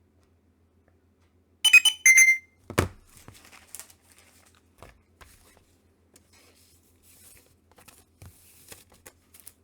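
A short burst of high electronic beep tones, then a thump and faint rustling and crinkling of handled plastic comic-book bags.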